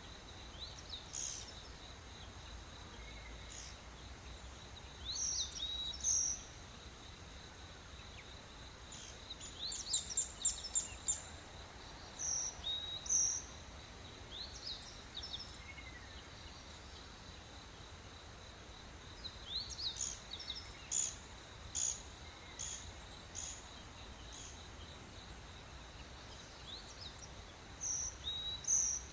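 Tropical rainforest birds calling in short chirps and quick rising whistles, in bursts every few seconds, over a steady high-pitched insect drone.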